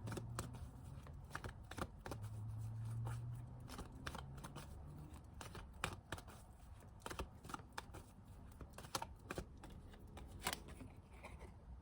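Tarot cards being shuffled and handled: a run of soft, quick card flicks and snaps at a low level.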